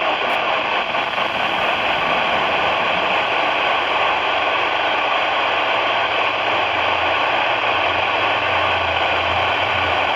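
Steady radio static hiss from a weather radio receiver, with a low hum coming up in the second half. The broadcast voice has cut out mid-sentence, leaving only static: a lost or faded signal.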